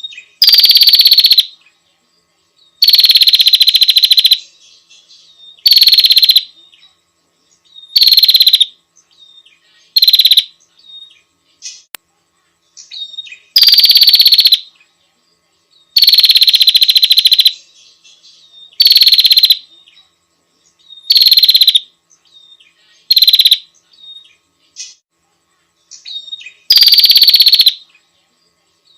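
Female prinia (prenjak) calling to a male: about eleven rapid, rattling calls, each lasting up to a second and a half, with short silent gaps between them.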